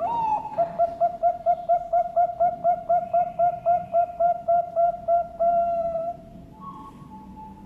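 Bangkok perkutut (zebra dove) singing its cooing song: a falling opening note, then a quick run of short coos at about four a second for several seconds, ending on a longer held coo. Fainter, higher coos follow near the end.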